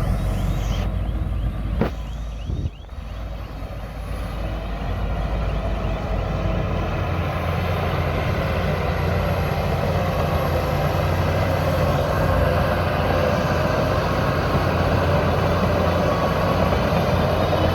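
Shantui bulldozer's diesel engine running as a steady low drone while the machine works. There is a sharp click about two seconds in and a brief drop just after, then the sound builds and holds steady.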